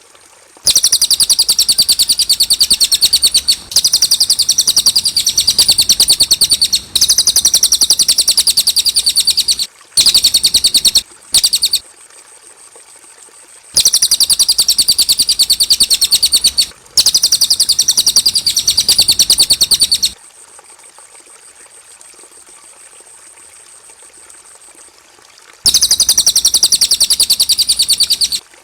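Cililin songbird singing in bouts of very rapid, high chattering trills, each about three seconds long, with short pauses between them and a longer pause about two-thirds of the way through. This is a clear song recording used to tutor young songbirds.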